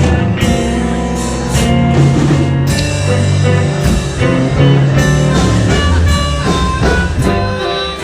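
Live blues band playing an instrumental passage: electric guitar over bass and drum kit with a steady beat.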